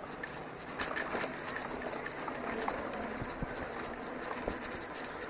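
Bicycle riding over a rough dirt trail: steady tyre and wind noise, with a run of sharp clicks and rattles from about one to three seconds in.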